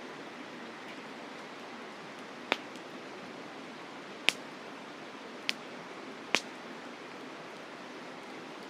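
Campfire burning wood, giving four sharp crackling pops over a steady rushing noise.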